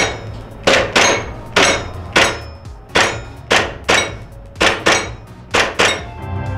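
Airsoft guns test-fired on an indoor shooting range: about a dozen sharp shots, mostly in quick pairs, some with a short metallic ring. Music comes in near the end.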